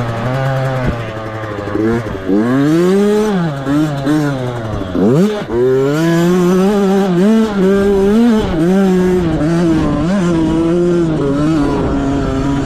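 Two-stroke youth motocross bike racing, engine pitch climbing and dropping again and again as the throttle is opened and closed through gears. About five seconds in the revs drop sharply, then climb steeply.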